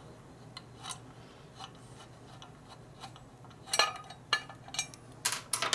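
Light metallic clicks and scrapes of a steel bolt and hand tools being worked against a bound-up bracket, with sharper clinks about four seconds in and again near the end.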